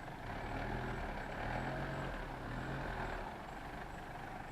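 Mitsubishi Shogun 4x4's engine running at low revs as it creeps through a shallow river, its pitch wavering slightly and easing off after about three seconds. The river's steady rush of water runs underneath.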